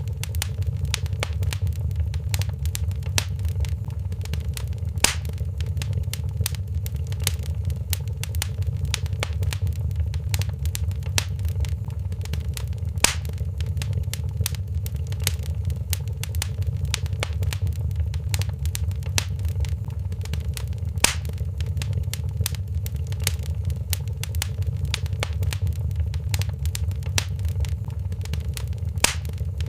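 Wood fire crackling in a fireplace: a steady low rumble of flame with frequent small crackles, and a louder pop about every eight seconds.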